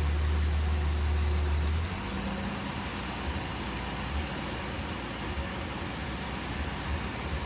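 Ford F-250 pickup truck's engine running. A loud, steady low drone drops away about two seconds in, leaving a quieter, uneven low rumble.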